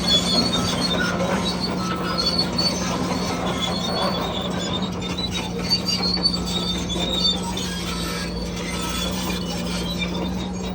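Crawler bulldozer working, its diesel engine running steadily under high, wavering squeals of steel tracks grinding over rollers and idlers.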